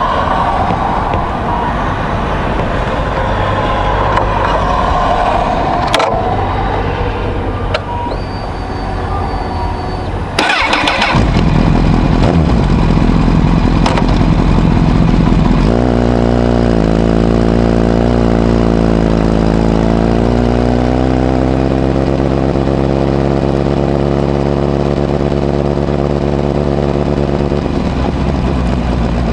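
Honda CBR1000RR (SC57) inline-four engine with a modified Moriwaki exhaust, baffle fitted, starting up about ten seconds in with a short burst, then idling steadily. The idle pitch wavers a little before settling.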